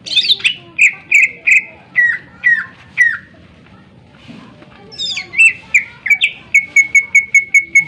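Cucak ijo (greater green leafbird) singing loudly: a run of sharp, down-slurred whistled notes, then after a pause of about two seconds a fast series of clipped repeated notes, about five a second.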